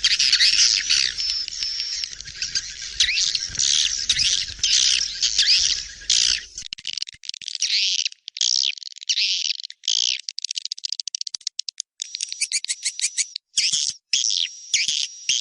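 Swiftlet lure recording of edible-nest swiftlet calls: dense, overlapping high twittering chirps. A low background rumble beneath them stops about six seconds in, leaving sparser chirps mixed with rapid clicking ticks and a thin steady high whistle.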